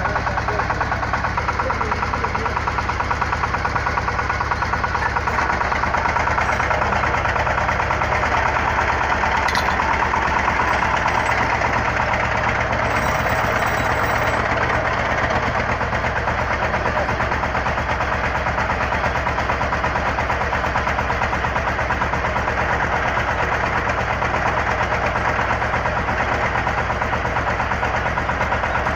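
Engine of a water well drilling rig running steadily at a constant speed, with an even fine pulsing and no change in pitch or level.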